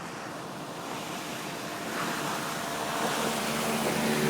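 A steady rushing noise, like wind or water on the microphone, slowly growing louder. Near the end a motor's steady low hum comes in.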